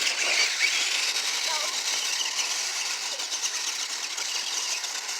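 Radio-controlled monster trucks running, a steady high whir of small motors and gears. Faint voices come through briefly early on.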